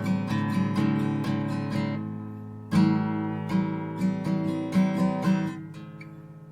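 Steel-string Art & Lutherie Wild Cherry acoustic guitar played on its own, mixing picked notes and strummed chords. There is a strong strum a little under three seconds in, and near the end a chord is left ringing and fading.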